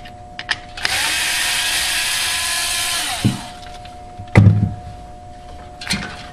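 Power drill/driver running for about two and a half seconds, spinning up and then winding down, backing out the screws that hold the refrigerator evaporator fan motor to its bracket. A single clunk follows about four and a half seconds in.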